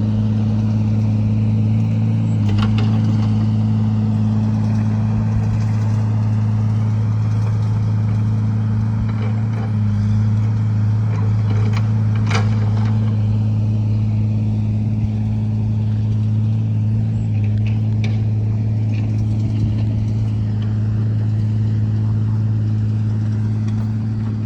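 An engine running steadily at idle, a constant low hum, with a couple of faint sharp clicks, one a couple of seconds in and one about halfway.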